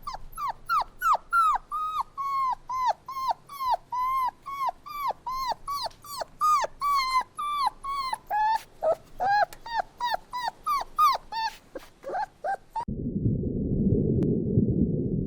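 A dog giving rapid, repeated short yelping whimpers, about three a second, for some twelve seconds. Near the end it cuts to a steady low rumbling noise.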